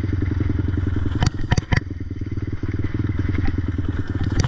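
Raptor ATV engine with an aftermarket exhaust running with a rapid, even pulse as it rides a woodland trail. About a second in come three sharp knocks close together, and another near the end.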